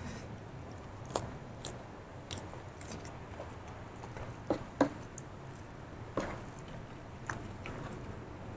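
Close-miked chewing of a mouthful of raw lalapan vegetables, with scattered short crunches and wet mouth clicks; the loudest are a pair about four and a half seconds in.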